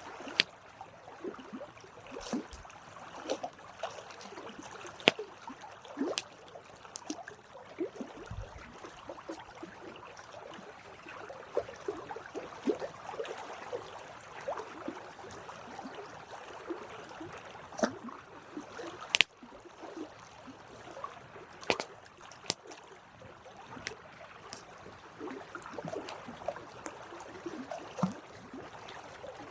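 Campfire burning, wood crackling and popping irregularly with a soft hissing underneath.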